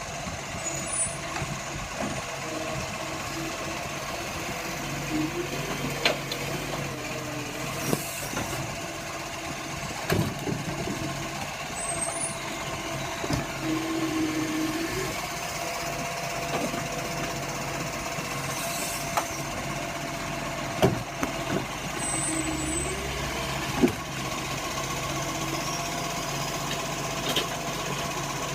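Large truck's engine running steadily, with scattered knocks and clanks and a few short squeals.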